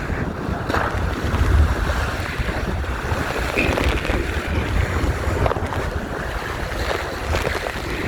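Wind buffeting the microphone over water splashing against the hull of a Topper sailing dinghy under sail, with occasional sharper splashes.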